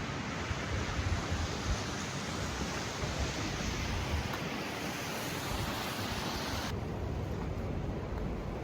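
Steady rushing of blizzard wind, with gusts buffeting the microphone in low thumps. About two-thirds of the way in, the hiss suddenly turns duller.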